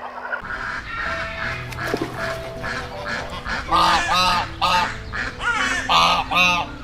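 A bird giving a rapid series of short repeated calls, louder from about four seconds in, over background music with held notes.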